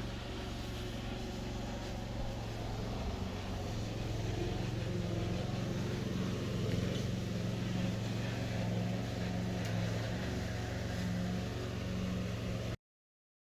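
Steady low mechanical drone, like a running engine, holding an even pitch. It cuts off abruptly near the end.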